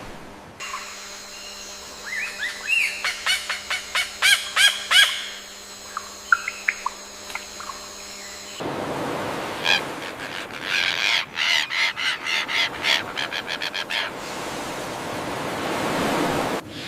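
Birds calling in several spliced clips: runs of quick, repeated chirps and clicks over a steady electrical hum, then a denser, noisier stretch of repeated calls.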